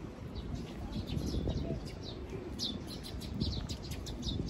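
Small birds chirping: quick, high, falling chirps, several a second, over a low steady background rumble.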